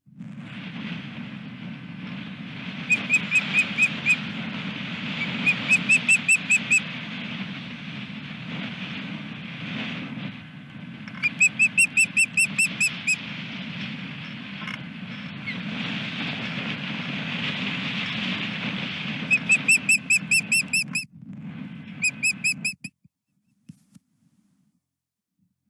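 Osprey calling in five runs of rapid, high whistled chirps, each run lasting about a second, over a steady rumble of wind buffeting the microphone. The sound drops out about three seconds before the end.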